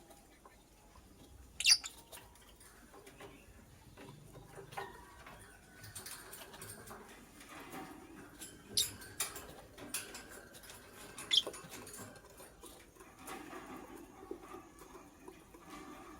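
A lovebird moving about its cage: faint scratching and rustling with a few sharp clicks or peeps, the loudest about two seconds in.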